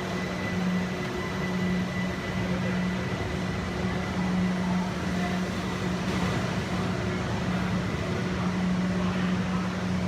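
Steady running noise of a train, with a low hum that swells and fades every second or so and a faint high whine above it.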